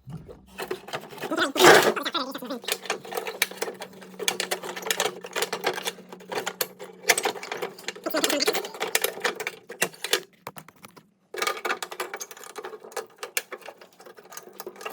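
Metal clicking, rattling and clanking as the mower deck's engagement spring and arm linkage are worked loose by hand, with one loud clank about two seconds in. A brief silent gap comes near ten seconds in.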